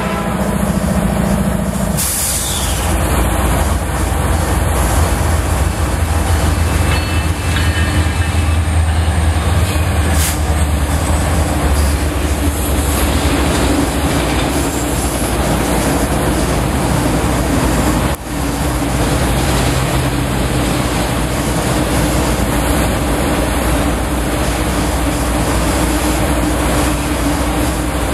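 Freight train passing close by. A horn sounds and cuts off about two seconds in. A heavy low rumble of the diesel locomotives follows, then a long string of autorack cars rolls past with steady wheel-on-rail noise.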